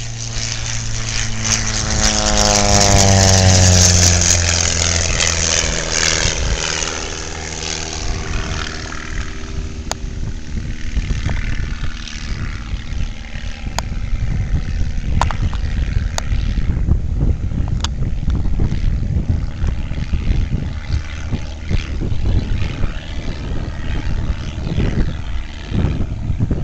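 A BD-4 light plane's 150 hp propeller engine passing low overhead. The note is loudest a few seconds in and drops sharply in pitch as the plane goes by, then trails off into a low rumble.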